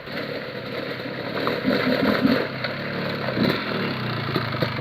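Honda TRX250R quad's two-stroke single-cylinder engine running and revving as it approaches, getting louder.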